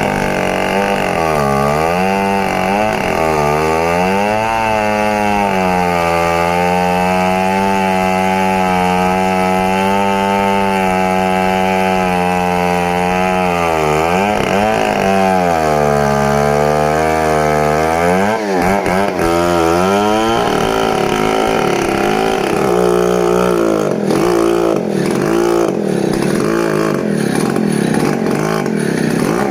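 Stihl 070 two-stroke chainsaw running under load in a cut, its pitch sagging and recovering as the bar bites, then holding steady for several seconds. From about two-thirds of the way in the engine note turns rougher and more uneven.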